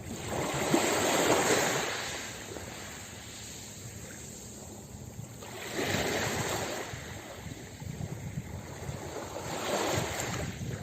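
Ocean waves breaking on a beach, three surges of rushing surf that swell and fade, the first the loudest.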